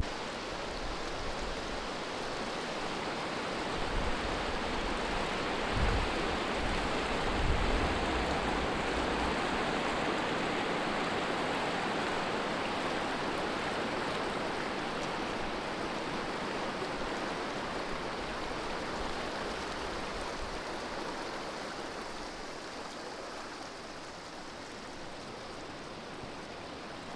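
Powerful rushing water from a hydropower dam's outflow pouring through the valley: a steady, dense roar that swells a little in the first third and gradually fades toward the end.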